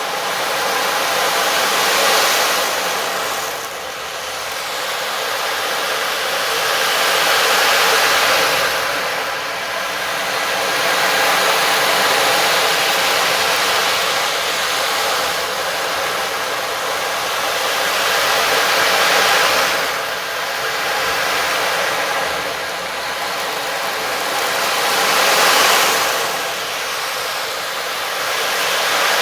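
A loud rushing hiss that swells and fades in slow waves about every five to six seconds, over faint held tones.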